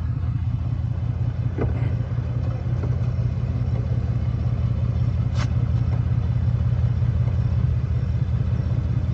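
Ford Mustang's engine idling steadily, a low even hum, with a couple of faint clicks.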